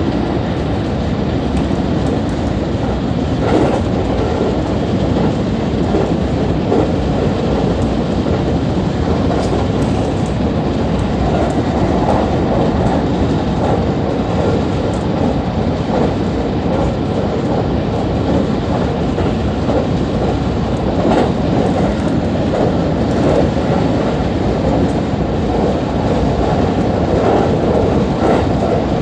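JR West 223 series electric train running at speed, heard from inside the car: a steady rumble of wheels on rail with faint, scattered clicks from rail joints.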